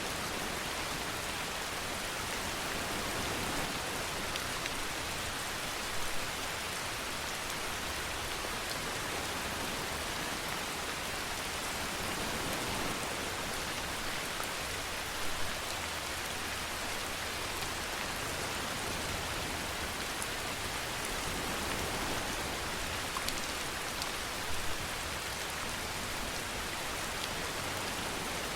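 Steady rain falling in an even hiss of drops, with a brief louder patter three times, about nine seconds apart.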